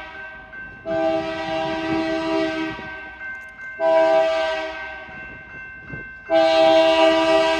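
Diesel locomotive's air horn sounding a chord of several notes in separate blasts: one long, then one short, then another long one starting about six seconds in. This is the long-long-short-long pattern sounded for a grade crossing.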